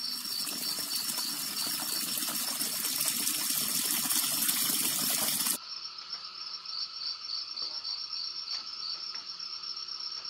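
Running water splashing for about five and a half seconds, then cutting off suddenly. Crickets chirp steadily throughout, left alone after the water stops.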